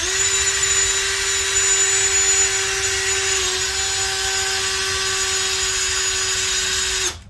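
Electric drill running at a steady high whine, boring out a stripped water-pump bolt hole in the engine block to 15/64 inch before tapping; the pitch dips slightly about halfway, and the drill stops abruptly near the end.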